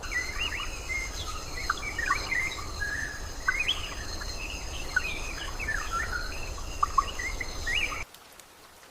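Forest ambience: insects trilling in a steady high-pitched chorus while several birds chirp and call over it, with a low rumble underneath. It all cuts off abruptly about eight seconds in.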